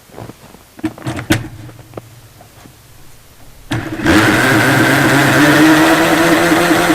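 Briggs & Stratton 4 hp snow blower engine cold-started in freezing weather: a few clicks and a short spell of cranking, then it catches about four seconds in and runs steadily and loudly.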